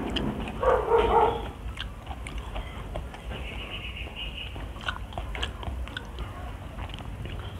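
Close-up eating sounds: chewing, with small clicks and smacks as fingers pick at fried tilapia. A brief louder pitched sound about a second in.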